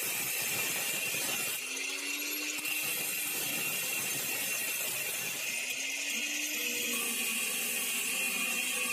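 Electric power tool running continuously, with a steady high whine.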